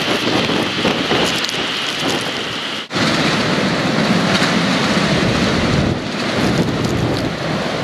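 Heavy typhoon rain with wind, a steady rushing noise. It breaks off briefly about three seconds in and carries on as a deeper rush of rain and wind.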